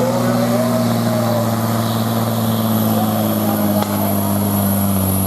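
Diesel pulling tractor's engine running loud and steady, with a fainter whine that rises in pitch during the first second. A short knock about four seconds in.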